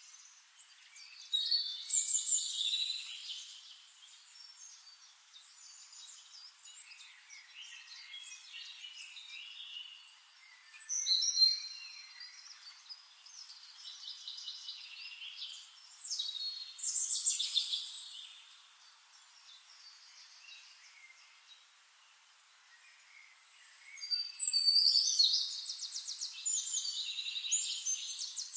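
Songbirds singing, warbling and chirping in separate phrases a few seconds long with quieter gaps between, the longest and loudest stretch near the end.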